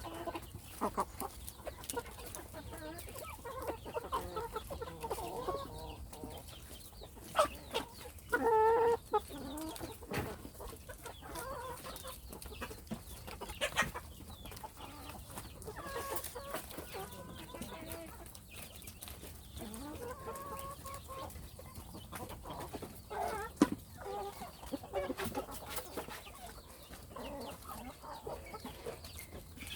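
Young hens clucking on and off, with one louder, longer call about eight seconds in and scattered short clicks between the calls.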